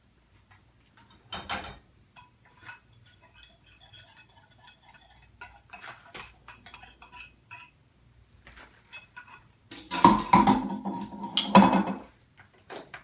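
Kitchen cookware and a utensil clinking and scraping in a run of small taps, as a sauce is poured and scraped into a pan of chicken. About ten seconds in comes a louder metallic clatter with a ringing tone, lasting nearly two seconds.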